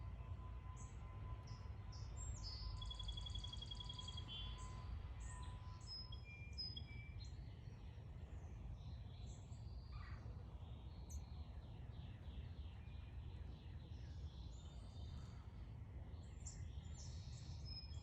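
Several backyard birds chirping and calling, with a fast, rapid trill about three seconds in and scattered short high calls throughout, over a steady low rumble.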